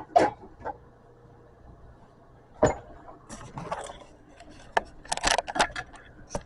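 Kitchen dishes and utensils being handled, with scattered clinks and knocks. There is one sharp clink about halfway through and a short run of clattering near the end.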